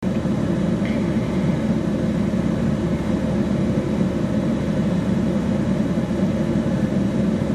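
Strong severe-storm wind rushing steadily over the microphone, a loud, even roar.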